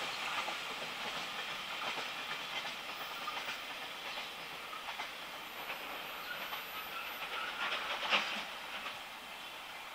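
JR Freight container train receding into the distance: wheel clatter and rail hiss fading slowly, with one sharp click about eight seconds in.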